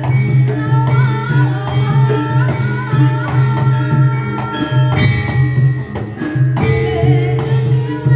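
Live Javanese reog folk music: drums keep a steady rhythm under a wavering melody line.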